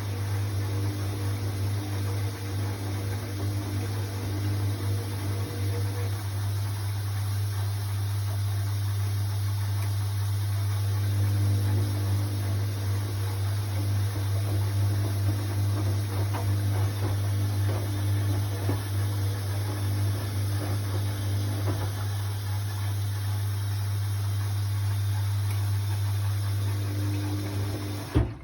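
Hoover washing machine running mid-cycle: a loud, steady low hum with fainter motor tones that come and go, cutting off suddenly with a click near the end.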